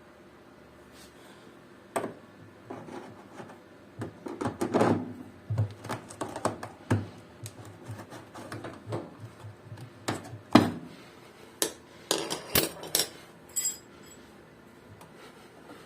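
Irregular clicks, taps and knocks of hard parts and tools being handled, with a louder knock about ten and a half seconds in.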